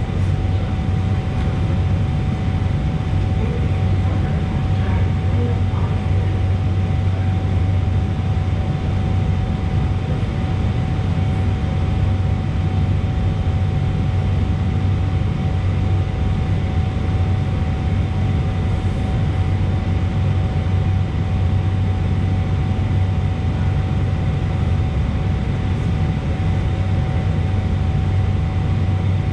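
Steady, loud low drone of an Underground station platform, with a constant thin hum running through it; it does not rise or fall as an arriving train would.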